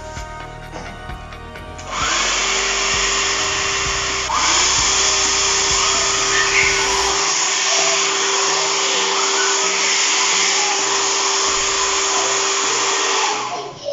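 Hair dryer switched on about two seconds in and running with a steady rush of air over a motor hum, a brief hitch about four seconds in, then switched off shortly before the end.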